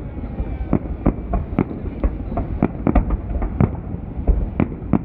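Festive fireworks salute: a rapid, irregular string of bangs from bursting shells, about three a second, over a continuous low rumble.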